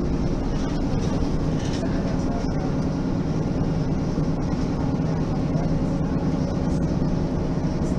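Mercedes-Benz Citaro Facelift city bus's diesel engine running steadily, a low even drone with faint steady tones.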